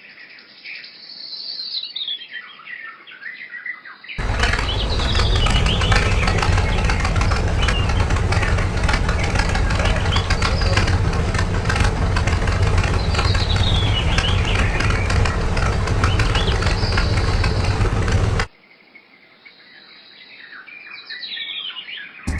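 Birds chirping. About four seconds in, a loud, steady machine noise with a strong low hum and fast even ticking starts and runs for about fourteen seconds, with the chirping still heard over it, then cuts off suddenly, leaving only the birds.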